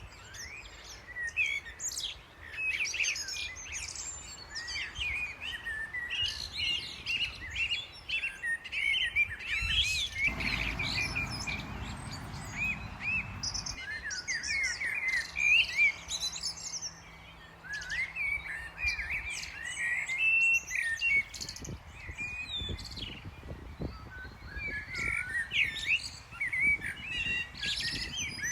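Many small birds chirping and twittering, with short, overlapping calls throughout. A brief rush of low noise runs for about three seconds around a third of the way in.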